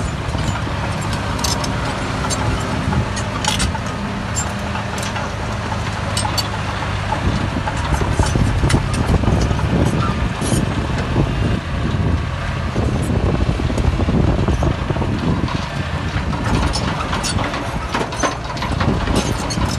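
Heavy diesel earthmoving machinery running: a steady engine hum that grows louder and rougher about seven seconds in, with scattered sharp knocks.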